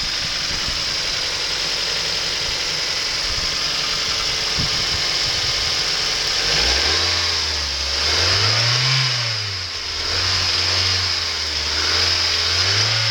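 2004 Mazda Miata Mazdaspeed's turbocharged 1.8-litre four-cylinder engine running on test. About halfway in it settles into a steady low idle, and it is briefly revved twice, once near the middle and once near the end.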